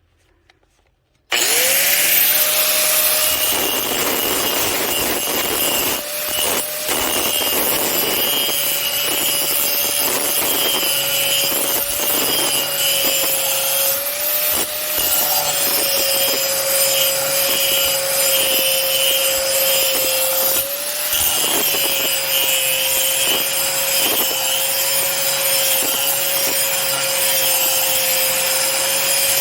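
Electric grinder starting about a second in, its motor spinning up to a steady loud whine. It then grinds a bevelled edge on 8 mm steel plate, and its pitch dips briefly each time the disc is pressed harder into the metal.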